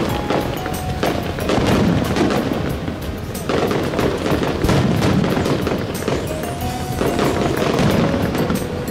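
Fireworks bursting and crackling in rapid, continuous succession, with deep booms underneath and music playing along.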